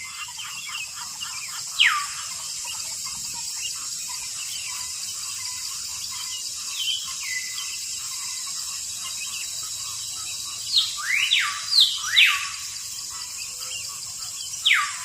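Birds chirping and calling over a steady high hiss. There are quick twitters early on, a loud whistle sweeping down about two seconds in, a cluster of rising and falling whistles around ten to twelve seconds, and another down-sweeping whistle near the end.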